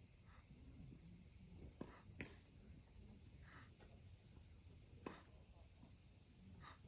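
Faint steady high hiss with a few sharp knocks, about two seconds in (two close together) and again about five seconds in: tennis balls being struck on court.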